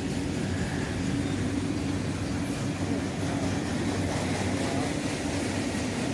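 Norfolk Southern freight train's cars rolling past, a steady rumble of steel wheels on the rails with a low hum.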